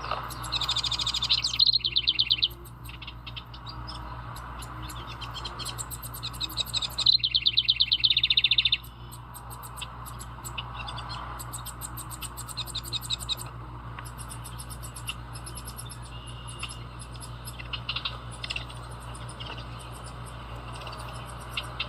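House wren singing: two loud runs of rapid repeated notes, one right at the start and one about seven seconds in, each about two seconds long, with fainter chirping in between. A steady low hum runs underneath.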